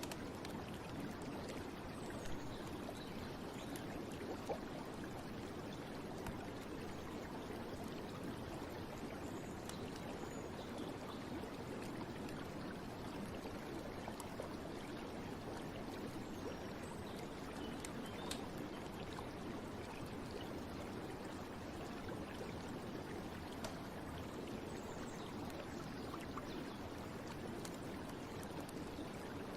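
Steady flowing water of a stream, an even running and trickling sound with no change.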